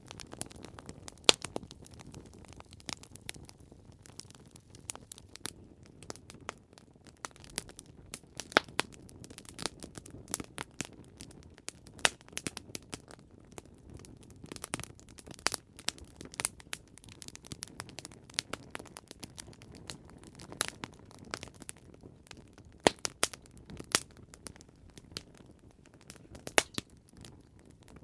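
Campfire burning and crackling: irregular sharp pops and snaps of burning wood over a low hiss and rumble of the flames.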